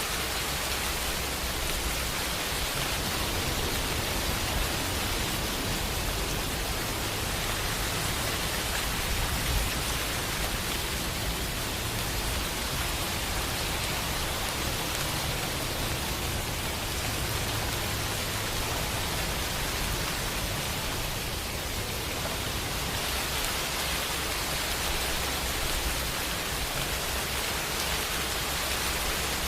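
Steady, even rain hiss with a low rumble underneath.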